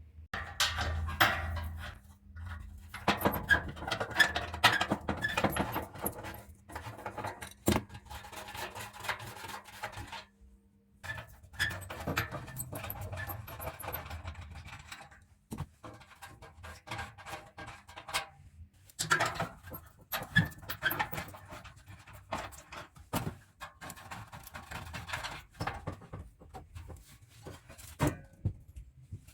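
Metal parts of an old electric fan being handled, with repeated clinks, knocks and rattles. A low steady hum runs underneath for about the first ten seconds, then stops.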